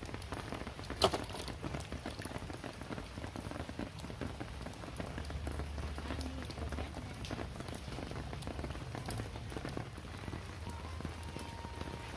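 Rain falling steadily on surfaces, a dense hiss of small drop ticks, with one sharp knock about a second in.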